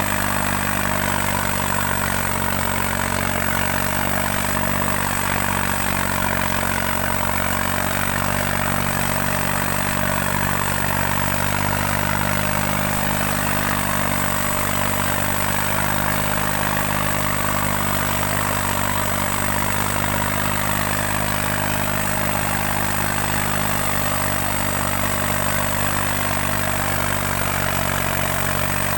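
New Holland 3630 tractor's diesel engine running at a steady speed while it pulls two harrows.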